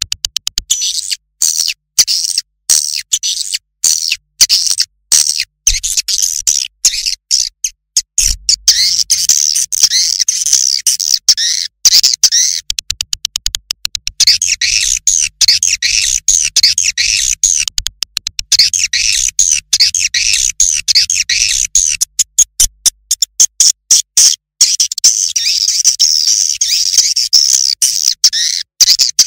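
Edited recording of edible-nest swiftlet calls, played as a lure sound to draw swiftlets into a nest house: a dense, rapid twittering of high chirps and clicks, looped and chopped by many brief dropouts.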